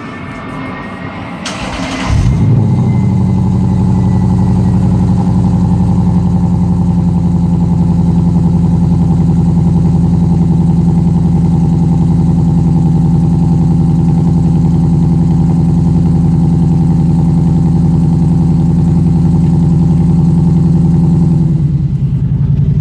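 Lexus IS F's 5.0-litre V8 cold start through an X-Force Varex valved exhaust with the valves open: a brief crank, then the engine catches about two seconds in and holds a steady, loud fast cold idle. Near the end the idle drops a little lower.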